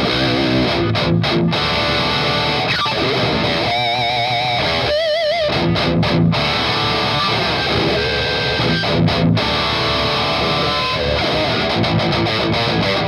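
Heavily distorted electric guitar, played through a Noise Pollution Pedals Psycho Metal Death Machine high-gain pedal, playing metal riffs. Palm-muted chugs are broken by held notes with wide vibrato about four seconds in.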